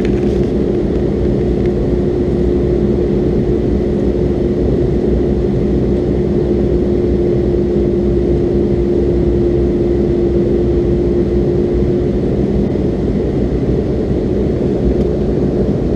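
Cabin noise of a McDonnell Douglas MD-82 airliner in flight: a loud, steady rumble from its rear-mounted Pratt & Whitney JT8D turbofans and the airflow, with a steady hum that fades out about three quarters of the way through.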